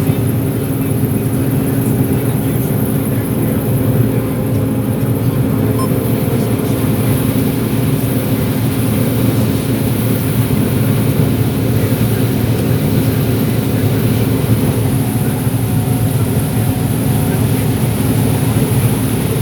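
John Deere 9760 STS combine running steadily while harvesting corn, heard from inside the cab: an even drone of engine and threshing machinery.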